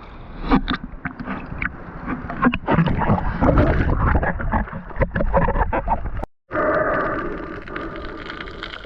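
Water sloshing and gurgling around a spearfisher's camera in the sea, with many short knocks and clicks. A sudden brief dropout comes about six seconds in, and after it a steadier churning with a faint hum.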